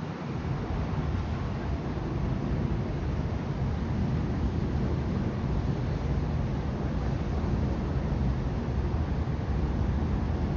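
Steady low outdoor rumble with a fainter hiss over it, unchanging and with no distinct events.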